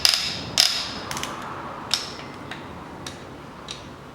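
Torque wrench set to 27 N·m tightening oil pump bolts, clicking. There are sharp metallic clicks that ring in the first second, then lighter, irregular ticks about every half second.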